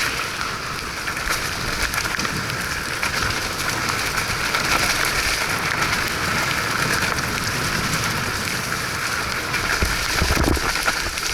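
Steady hiss and patter of rain. There is a brief low bump about ten seconds in.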